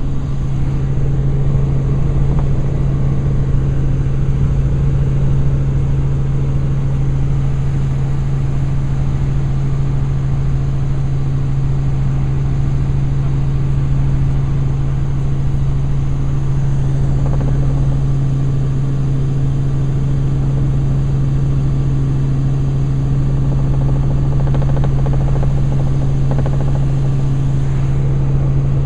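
Helicopter in flight, heard from on board: a loud, steady drone of engine and rotors with a strong low hum that does not change.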